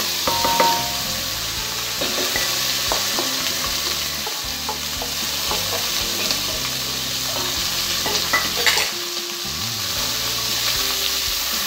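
Sausage, garlic and freshly added chopped onion sizzling in olive oil in a stainless steel pot, stirred and scraped with a wooden spoon. There are a few knocks and clinks as the steel bowl is tipped over the pot and tapped with the spoon, with a brief metallic ring near the start.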